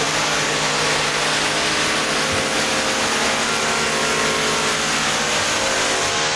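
Loud, steady whine of a power drill from renovation work, running without a break.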